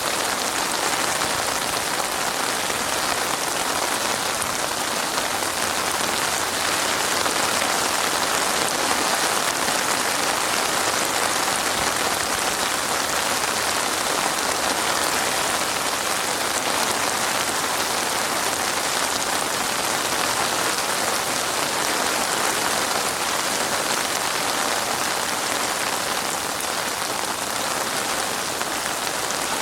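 Heavy rain falling steadily and densely, an even hiss of drops with no let-up.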